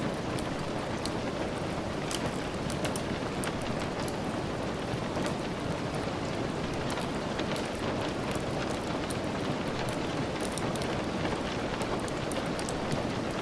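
Steady rain, an even rushing hiss with many small sharp ticks of drops scattered through it.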